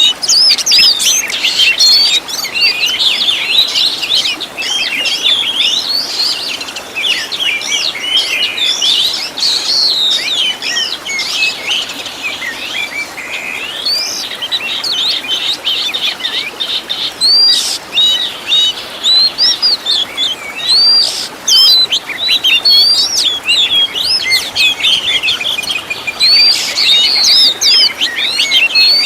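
Oriental magpie-robin (kacer) song: a fast, unbroken stream of varied whistles, chirps and trills, dense and overlapping, a little softer midway. It is the kind of bird-training recording filled with mimicked phrases of other birds.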